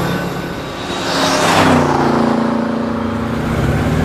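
A car passing by: a rush of tyre and engine noise peaks about a second and a half in, then the engine note drops in pitch and holds as the car moves away.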